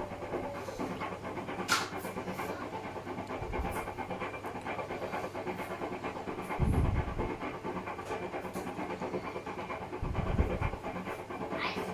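Hotpoint washing machine running a wash with a dog food box in the drum: a steady hum and swishing, with three dull low thuds about three and a half seconds apart as the box tumbles.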